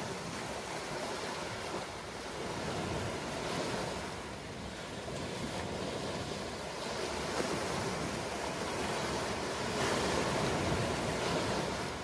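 Ocean waves breaking and washing in a steady rush that swells and eases, with the loudest surge near the end.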